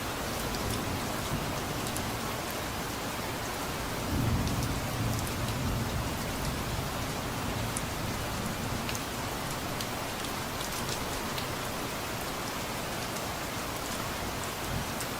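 Steady rain falling, with scattered drops ticking. About four seconds in, a low rumble of distant thunder swells and fades over a few seconds.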